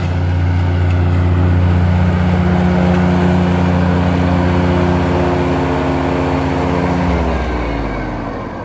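Riding lawn mower's engine running steadily under load. About seven seconds in its pitch drops as it slows down.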